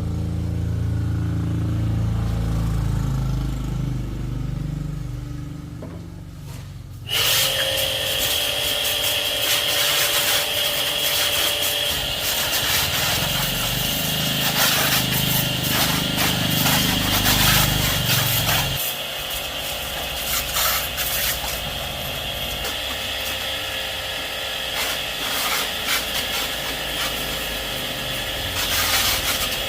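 A power tool with a steady whine starts abruptly about seven seconds in, grinding or rubbing against a surface in a dense, scratchy stream. Under the first part a low rumble runs and stops a little over halfway through.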